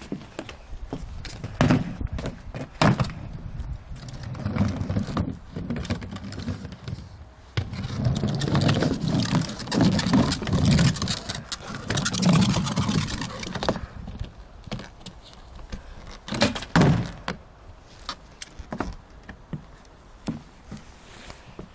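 Skateboard rolling over wet pavement for several seconds, with wheel rumble and a hiss. There are sharp clacks of the board and trucks hitting the ground a couple of seconds in and again near the end.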